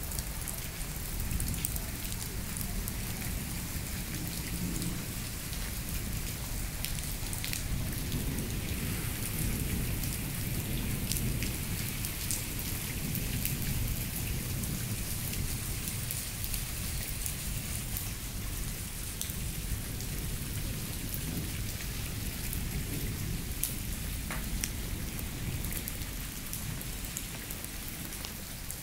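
Moderate rain falling steadily on bare dirt ground and walls, with scattered sharp drop taps over a steady low rumble.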